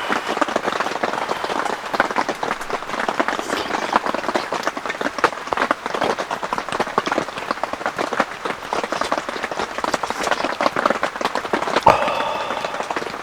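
Heavy rain pattering steadily on a camping shelter's fabric, a dense crackle of drops. Near the end a single sharper knock stands out, followed by a brief tone.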